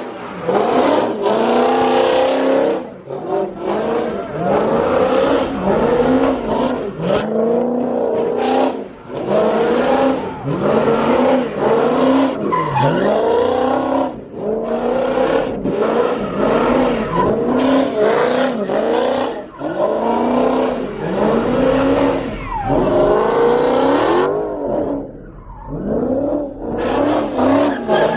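A car engine revving hard again and again, its pitch dipping and climbing every second or so, with tyre skid noise underneath, as in a burnout or donuts.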